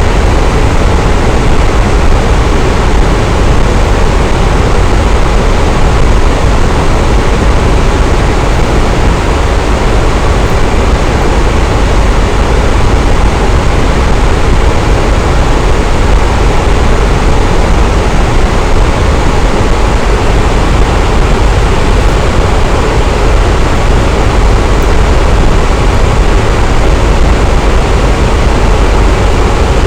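Electric fan running steadily: a continuous whooshing rush of moving air with a deep rumble beneath and a faint motor hum.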